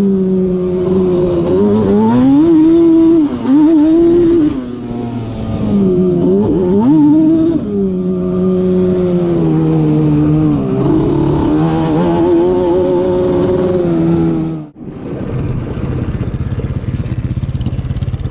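Yamaha Banshee's twin-cylinder two-stroke engine, bored out with a Cheetah 426 big-bore kit, revving hard under way: its pitch climbs and drops again and again through the gears. About fifteen seconds in it cuts off sharply, then settles to a lower, steadier running note.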